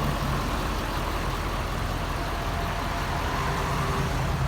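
Ford 6.7 Power Stroke V8 turbo diesel, fitted with an aftermarket exhaust, idling steadily.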